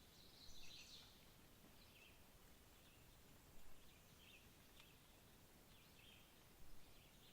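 Faint, distant bird calls: short chirps repeating every second or so over a quiet background hush, the loudest about half a second in.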